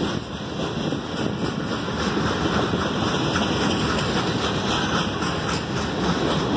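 CSX freight train's cars rolling past close by, a steady rumble of steel wheels on rail.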